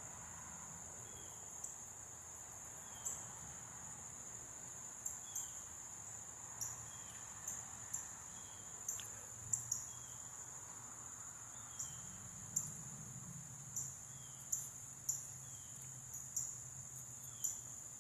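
Insects trilling: a steady high-pitched buzz with irregular brighter pulses about every half second to a second.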